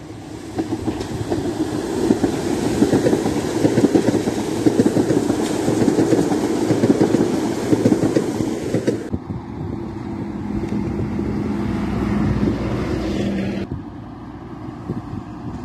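Merseyrail electric passenger train passing close below, its wheels rumbling loudly on the rails. The sound drops off suddenly about nine seconds in. Near the end the train gives way to a bus approaching along a road.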